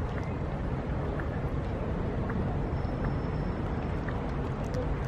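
Steady wind rumble on the microphone over outdoor city background noise, with a few faint short bird chirps.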